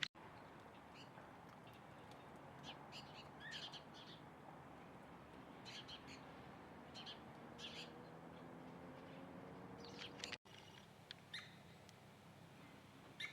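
Birds chirping faintly and sporadically, short high calls scattered over a low background hiss, with the sound cutting out for an instant about ten seconds in.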